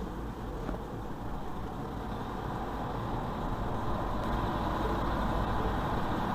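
Steady road and engine noise from a moving motor vehicle, a low rumble that slowly grows louder.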